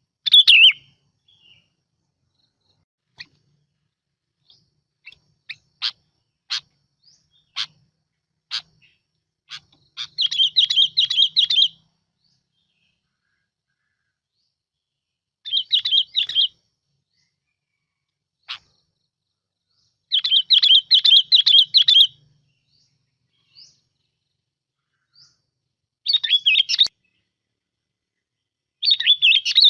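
Bulbul (bông lau) song: several bursts of rapid, warbling phrases, each one to two seconds long, broken by short single call notes spaced about a second apart.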